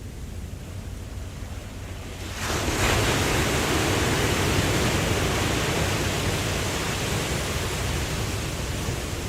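Ocean surf: a low rumble of waves, then about two and a half seconds in a wave breaks and washes in with a loud rushing hiss that slowly eases off.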